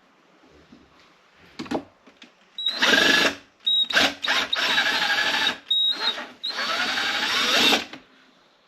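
Power drill-driver running in about six short bursts from about 3 s in until near 8 s, its motor whine rising and falling in pitch, as it tries to back out screws from the base of a coffee maker. The screw heads are stripping and the bit is not turning them out. A single click comes before the bursts.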